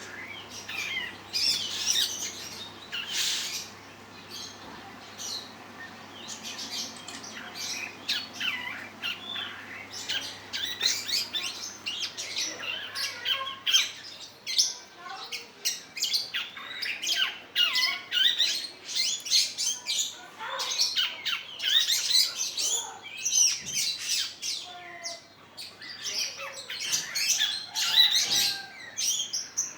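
Long-tailed shrike singing: a rapid, varied run of short chirps and calls, nearly continuous with only brief pauses.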